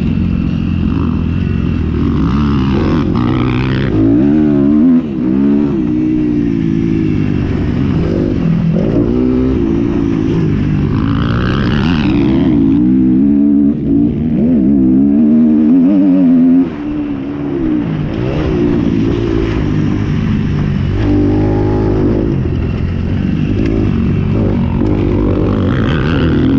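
Several motocross bikes' engines revving, their pitch rising and falling as they accelerate and shift. Louder, higher surges come about three seconds in, near the middle and near the end, as bikes pass close.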